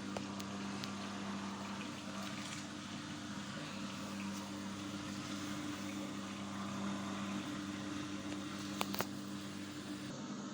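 Water running steadily into the wash tub of an Armaco twin-tub washing machine, filling it with fresh rinse water. A steady low hum sits under the water, and a couple of sharp clicks sound near the end.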